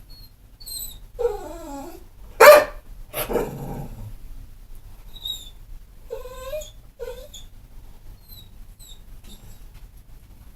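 Pit bull vocalising: a wavering whine, then one loud sharp bark followed by a rougher, growly bark, and about three seconds later two short rising whines.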